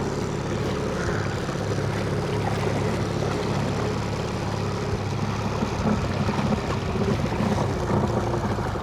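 Boat engine running steadily under test on a newly fitted electric fuel pump. It is not running right: the owner says something is definitely not 100% and likens it to the motor missing.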